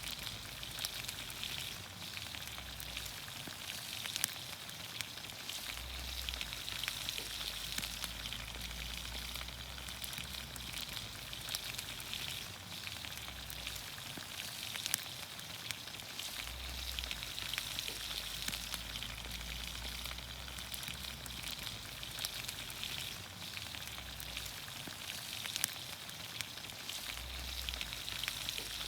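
Green beans, onions, carrots and potatoes sizzling steadily in olive oil in a pan over a campfire, with scattered pops and crackles.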